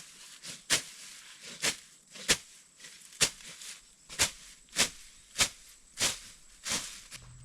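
A long knife chopping and slashing through dragon fruit plant growth and brush: about a dozen short, sharp cuts, roughly one every half second.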